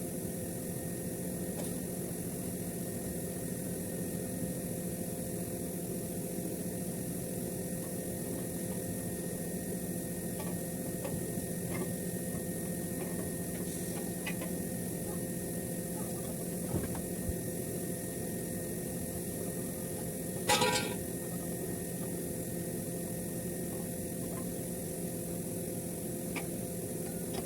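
Steady mechanical hum with several constant tones, broken by a brief clatter about twenty seconds in.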